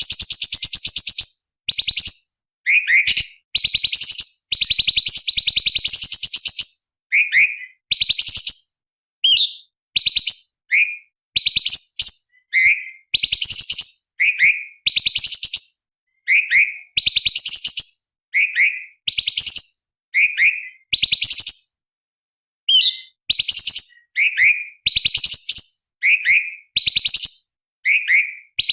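Orange-bellied leafbird (cucak cungkok) singing: a string of sharp, rasping, fast rattling phrases, each about a second long and usually ending in a short downward note, with brief pauses between them.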